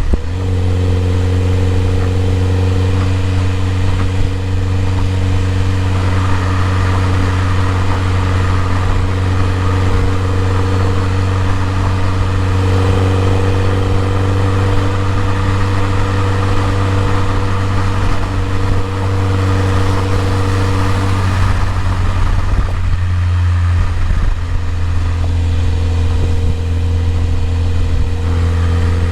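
BMW E30 M3's S14 four-cylinder engine running steadily at a constant speed, its revs having just dropped. The tone shifts briefly about two-thirds of the way through, then settles again.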